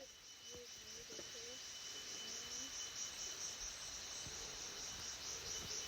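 Insect chorus of crickets: a steady, softly pulsing high trill with a thin steady whine under it, and a few faint short chirps.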